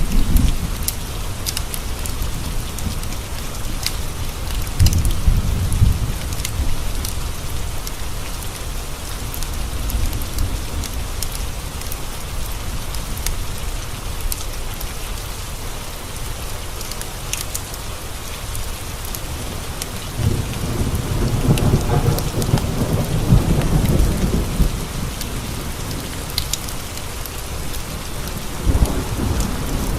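Steady rain with rolls of low thunder: one about five seconds in, a longer roll from about twenty to twenty-five seconds, and another near the end. Scattered sharp crackles and pops from a wood fire in a fireplace sound over the rain.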